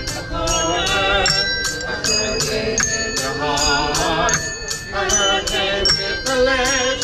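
Live music: a singer with strong vibrato over a steady beat of jingling percussion, about two to three hits a second, with ringing bell tones.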